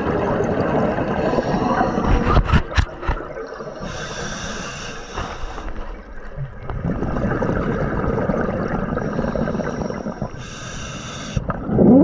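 Scuba diver breathing through a regulator underwater: long bubbling exhalations, broken twice by a short hiss of inhalation, about four seconds in and again near the end.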